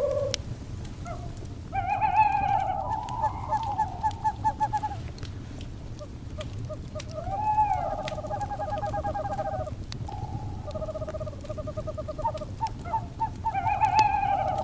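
Owl calls in several quavering, trilling bouts, some rising at the start, over the crackle of a wood fire with scattered sharp pops and a low rumble.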